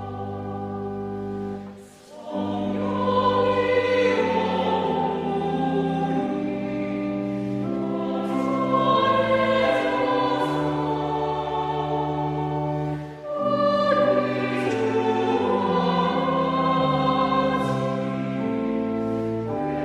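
Church choir singing a hymn with pipe organ accompaniment, sustained phrases with two short breaks between them.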